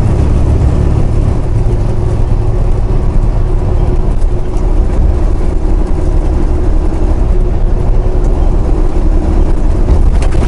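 Semi-truck engine and road noise heard inside the cab while driving, a loud, steady low rumble.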